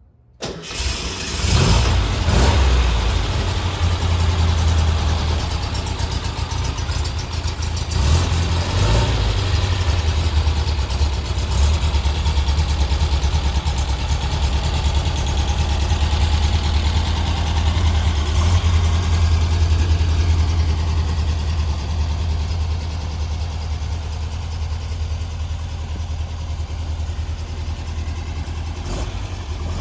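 Porsche 356B air-cooled flat-four engine on a cold start: it catches about half a second in and keeps running steadily.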